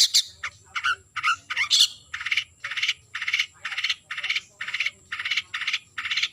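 Long-tailed shrike giving a run of harsh, rasping calls, about two a second, with a few quick sweeping notes mixed in during the first two seconds.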